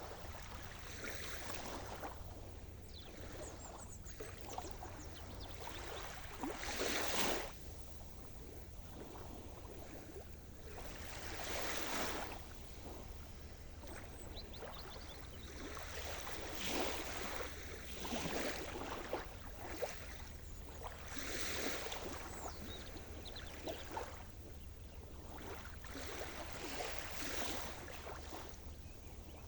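Sea surf: waves breaking and washing up the shore in surges about every four to five seconds, the strongest about seven seconds in, over a steady low rumble.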